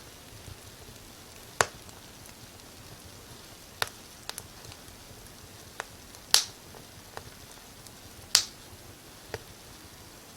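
Wood fire crackling: sharp pops and snaps at uneven intervals, a few of them loud, over a faint steady hiss.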